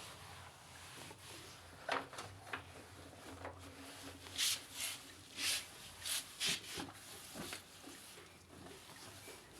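A run of short rubbing and scraping sounds with a few clicks, thickest in the middle, over a faint steady hum.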